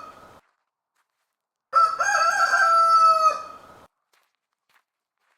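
Rooster crowing cock-a-doodle-doo: the end of one crow fades out at the very start, then one full crow of about two seconds begins near the two-second mark.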